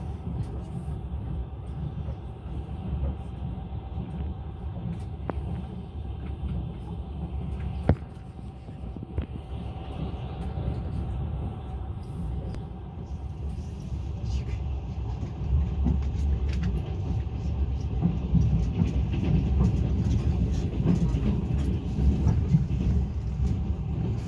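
Passenger train running: a steady low rumble of wheels on rails with a few sharp knocks, growing louder from a little over halfway through.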